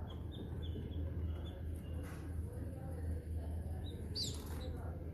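High-pitched bird cheeps: a quick run of short squeaky peeps at the start, then one falling call about four seconds in, over a steady low hum.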